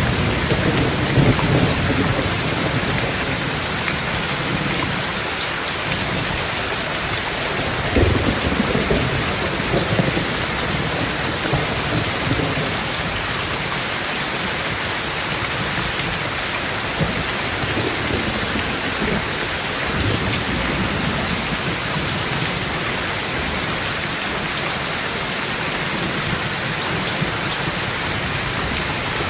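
Steady rain falling, with low thunder rumbling in the first few seconds and again briefly about eight seconds in.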